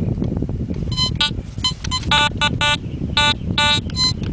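Fisher metal detector sounding a rapid string of short, pitched beeps of varying tone as the coil is swept over several buried metal targets, over a low rumbling noise. It is a strong, repeated signal, typical of a pocket spill of coins.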